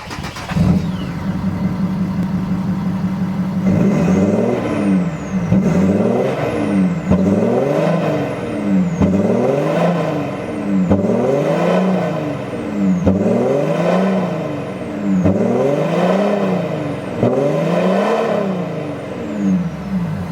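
Kia Mohave engine running through a valved aftermarket exhaust: a steady idle, then from about four seconds in blipped repeatedly, about nine revs roughly two seconds apart, each rising and falling in pitch.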